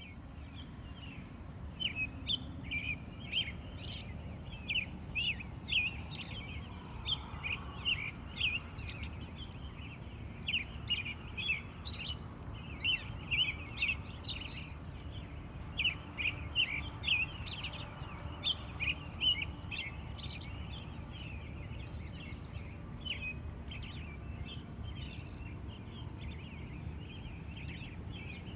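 Wild birds in a pre-dawn chorus: many quick, sharp chirps in rapid runs, thinning out after about twenty seconds. Under them are a steady high hum and a low background rumble.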